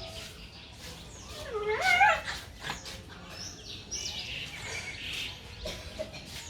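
A dog gives one short whining yelp about two seconds in, rising and wavering in pitch, amid light clicks and small bird chirps.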